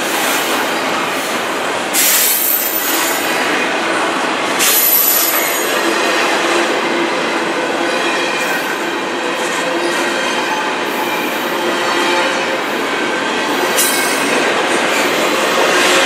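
Double-stack intermodal freight train rolling past close by: a steady rumble and rattle of wheels and well cars on the rails, with a few brief high-pitched wheel squeals, about two, five and fourteen seconds in.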